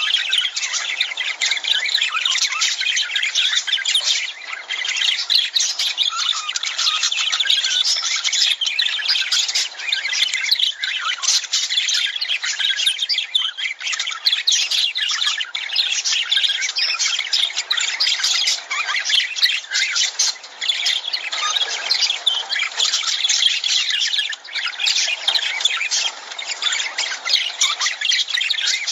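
Lovebirds calling, a dense, unbroken chatter of many short shrill calls overlapping one another.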